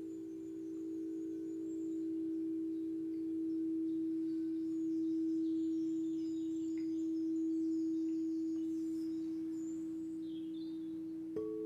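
A singing bowl's long sustained ringing tone, slowly swelling and fading, with a second bowl struck near the end ringing a higher note. Faint bird chirps in the background.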